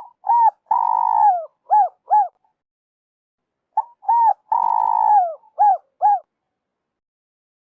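Spotted dove cooing: two identical phrases about three seconds apart. Each phrase is a short note, one long drawn coo, and then two short clipped notes.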